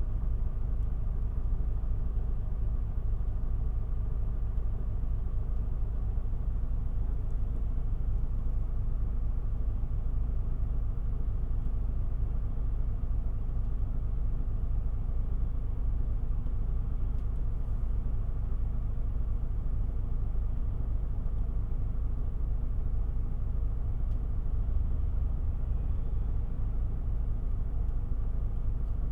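Isuzu Erga city bus's diesel engine running at a steady, unchanging pitch, a low rumble heard from inside the passenger cabin.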